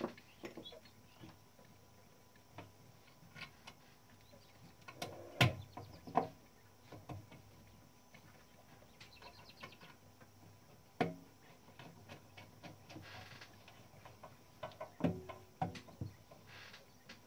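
Scattered, irregular clicks and knocks of small metal parts being handled and fitted on a Klein Adler 2 typewriter during reassembly. The loudest knocks come about a third of the way in, around the middle, and near the end.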